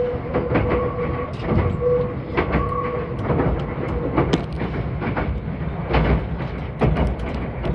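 Meitetsu 2000 series μSKY electric train running along the line: a continuous low rumble of wheels on rail with irregular clicks and knocks, over a faint steady tone.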